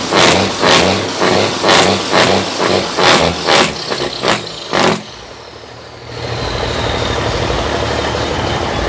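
Loud rhythmic pulsing, about two beats a second, cuts off abruptly about five seconds in; after a brief quieter moment a heavy truck's engine runs steadily.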